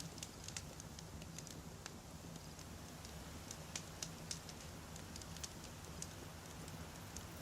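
Wood campfire burning, with irregular sharp crackles and pops from the burning logs over a steady low rumble.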